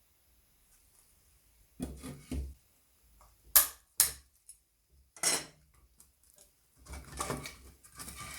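Workshop handling noises from small hard parts. A couple of clattering knocks are followed by two sharp clinks, another clink, and then a stretch of rattling and scraping.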